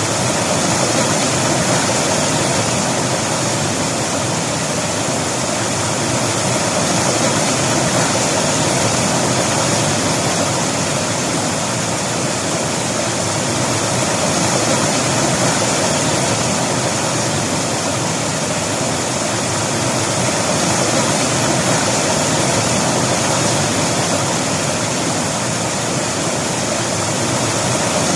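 River water rushing and splashing over rocks: a steady, loud flow that swells and eases gently.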